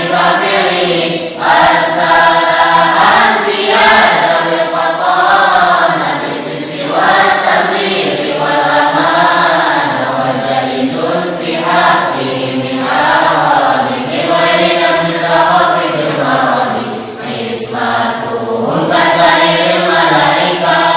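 A group of voices chanting Arabic verses in unison to a melody.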